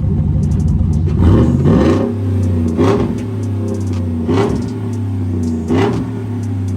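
2016 Chevy truck's V8, fitted with a small cam and short-tube headers, idling with a lumpy rumble and then revved: one longer rev about a second in, followed by three short throttle blips.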